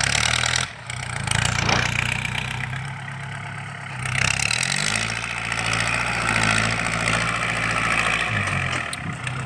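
Non-turbo engine running through a loud, free-flowing aftermarket open exhaust: a steady idle, then revved up about four seconds in and held at the higher pitch, dropping back near the end.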